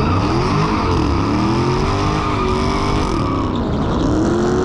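Car engine running hard, its pitch climbing and dropping several times as it accelerates and eases off.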